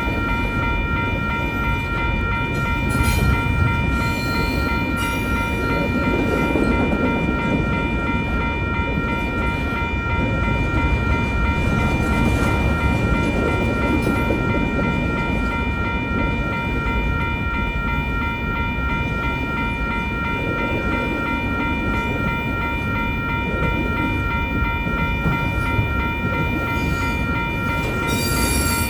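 Union Pacific intermodal freight train rolling steadily through a grade crossing, its cars rumbling past close by. The crossing's warning bell rings steadily over the train noise.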